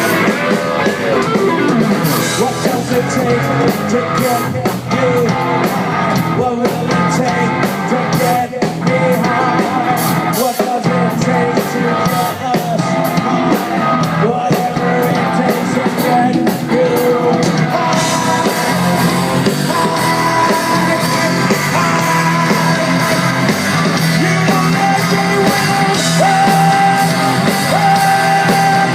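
A rock band playing live, with electric guitars, drums and singing, loud and distorted through a phone's microphone.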